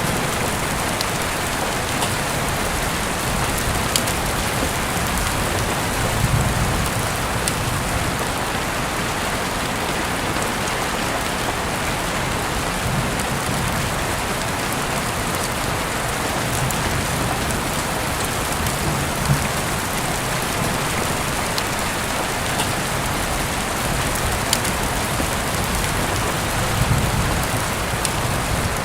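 Heavy rain falling steadily, with a few sharp drop hits standing out and several short low rumbles now and then.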